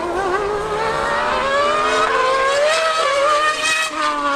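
High-performance engines of a Yamaha superbike and an AMG car accelerating hard in a drag race. The pitch climbs steadily, dips briefly about three seconds in, climbs again and drops near the end.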